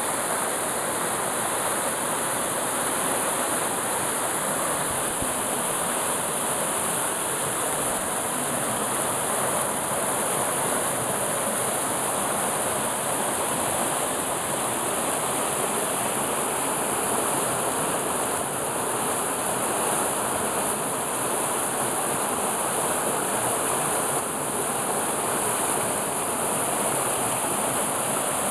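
Waterfall: falling water crashing steadily, a constant rushing roar with no break.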